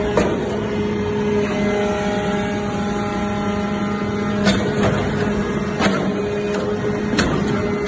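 Hydraulic baling press for aluminum turnings running: a steady machine hum with a few sharp knocks a second or so apart.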